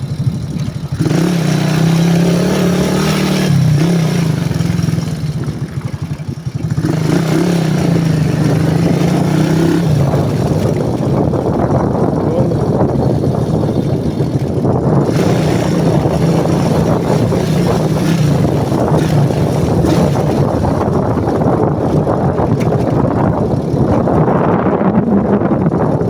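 Single-cylinder engine of a CG-type motorcycle running while riding, its pitch shifting up and down with the throttle. Wind rushes over the microphone throughout, and after about ten seconds the wind covers more of the engine.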